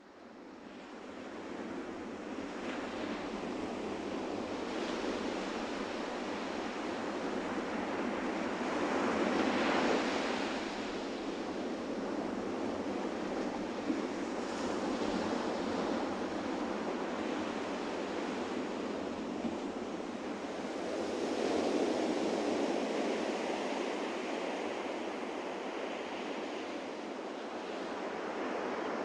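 Ocean waves washing onto a beach: a steady rush of surf that fades in at the start and swells and eases, loudest about ten seconds in and again about twenty-two seconds in.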